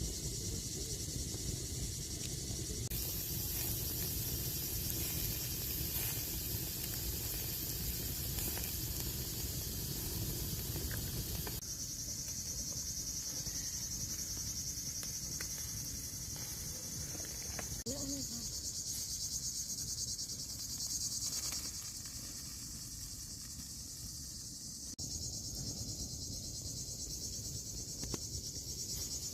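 Insects chirring steadily at high pitch over a low rumble. The chorus changes abruptly several times.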